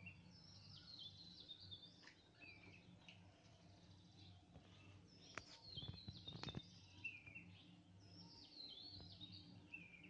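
Faint birdsong: many short, high chirping phrases repeating. A few soft knocks come about halfway through.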